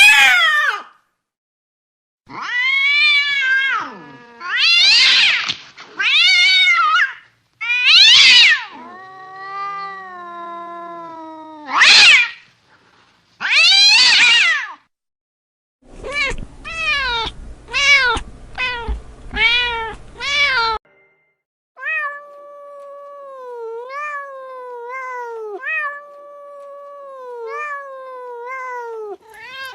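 Cats meowing: several long, drawn-out meows and yowls one after another, then a quick run of short meows over background hiss, and in the last third a string of quieter short, repeated mews.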